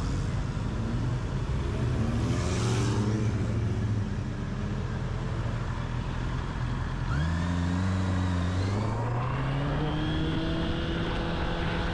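Motor vehicle engine running in street traffic, with a brief hiss about two seconds in; about seven seconds in an engine pulls away, its pitch climbing steadily as it accelerates.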